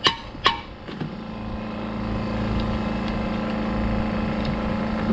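Two more sharp, ringing hammer strikes on metal in the first half-second, at the pace of a steady run of blows, then a steady low mechanical hum with one constant tone.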